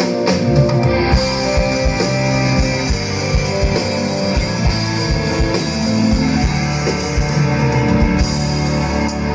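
Live rock band playing an instrumental passage through a PA: guitar over a drum kit with a regular kick-drum beat.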